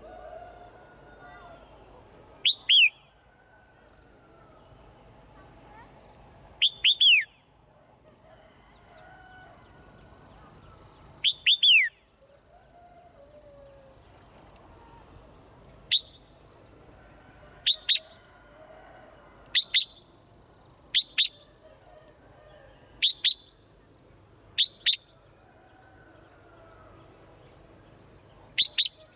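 Swallows calling: loud, sharp downslurred chirps, mostly in pairs, repeated every two to four seconds over fainter warbling and a steady high hiss.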